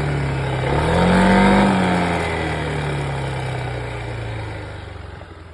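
Yamaha Xmax 300 scooter's single-cylinder engine revved once, rising about a second in and falling back, then winding down and fading away near the end.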